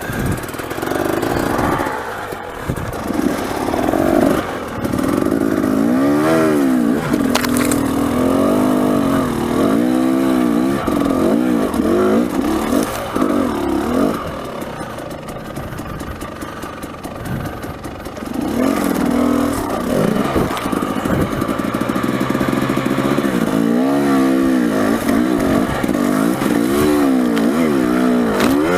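Dirt bike engine revving hard in repeated surges, its pitch climbing and dropping over and over as it is worked up a steep, rough hill climb. It eases to a lower, quieter run for a few seconds midway, then surges again.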